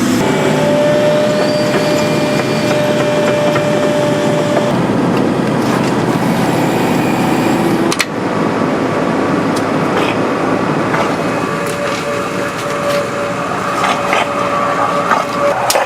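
Heavy construction machinery running steadily with a held whine, with an abrupt change about eight seconds in.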